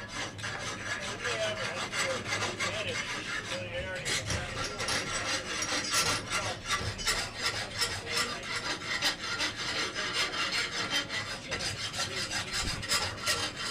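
Quick, repeated back-and-forth scraping strokes of a hand tool working a small forged iron piece, such as cleaning or dressing the latch part.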